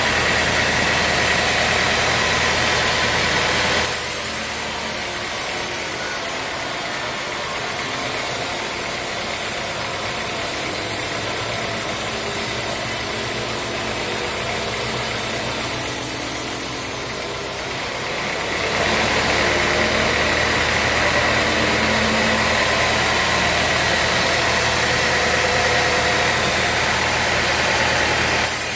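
Band sawmill running steadily with a low machine hum. From about four seconds in until about eighteen seconds, the low hum drops and a high hiss takes over, then the steady hum returns.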